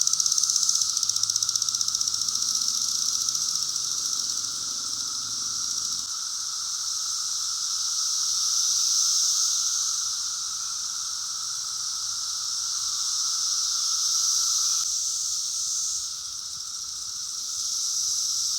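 Massed chorus of male 17-year periodical cicadas calling to attract females: a loud, continuous droning hiss in two pitches, one high and one lower, that swells and fades slowly, dipping about sixteen seconds in.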